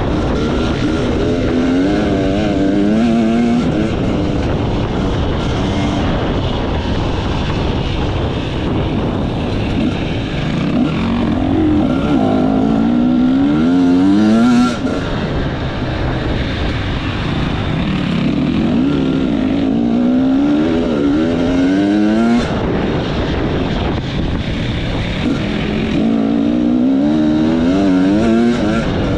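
Off-road enduro motorcycle engine revving hard, its pitch climbing in short repeated rises as it accelerates and shifts, in four spells with lower running in between, over a steady rush of wind and riding noise.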